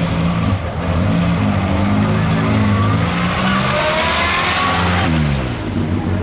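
Vehicle engine running close by, with a rising whine from about two and a half seconds in that stops abruptly near five seconds, after which the engine note drops and steadies.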